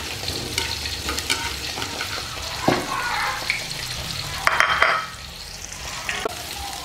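Tempeh strips frying with shallots, garlic and chilli in an aluminium wok: a steady sizzle with the clicks and scrapes of chopsticks stirring. A brief louder burst comes about four and a half seconds in, after which the sizzle goes on more quietly without the stirring.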